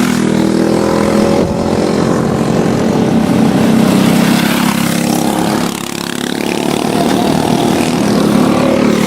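Several racing karts' single-cylinder Briggs & Stratton Animal engines running at high revs in a pack, with a dip in loudness about six seconds in before they come back up.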